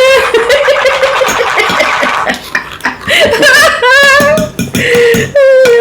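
High-pitched, sing-song vocal sounds that waver and glide in pitch, with a few longer held notes near the end.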